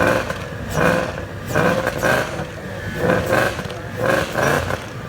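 Car engines running at a car show, with a low rumble throughout and repeated rising and falling pitched surges, like engines being blipped as cars move off.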